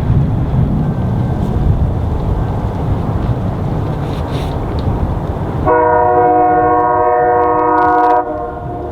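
Low rumbling noise, then a locomotive's multi-chime air horn sounds one long blast, starting about six seconds in as a chord of several tones and cutting off sharply a couple of seconds later.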